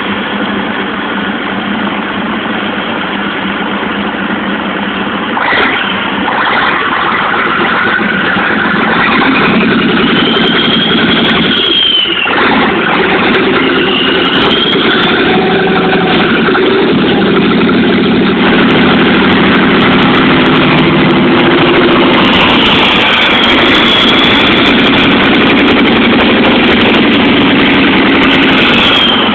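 Freshly rebuilt Scania 113 truck's six-cylinder diesel engine running on its first test start after the rebuild. It gets louder after several seconds and then holds steady, with a brief dip near the middle.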